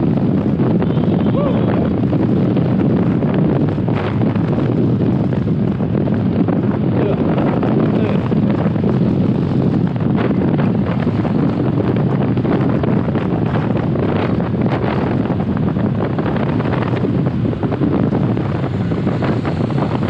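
Steady wind rush over a helmet-mounted camera's microphone on a moving motorcycle, with vehicle and road noise underneath.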